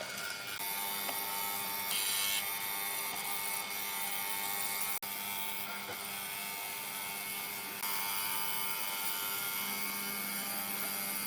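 Electric woodworking power tool running steadily, with a whine of several fixed tones over a noisy hiss. The sound changes abruptly about two, five and eight seconds in, with a brief dropout at five seconds, as if spliced from separate takes.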